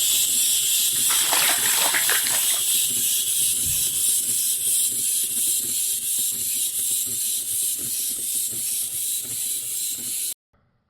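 A steady, high-pitched hissing rattle that cuts off suddenly near the end.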